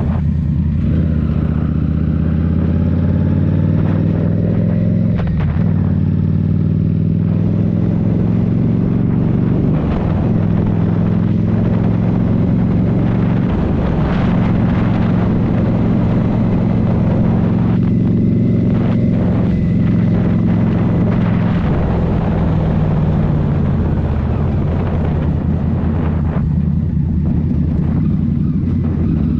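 2023 Indian Scout Rogue's 69 cu-in liquid-cooled V-twin running through a Rinehart slip-on exhaust while riding. The pitch rises under acceleration, drops suddenly at a gear change about five seconds in and climbs again. It then holds steady at speed and falls lower near the end as the throttle eases off.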